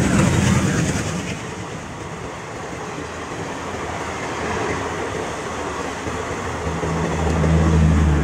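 Passenger train passing close by at speed: the locomotive's engine first, then the steady rush and wheel noise of the coaches going by. A steady low hum builds near the end.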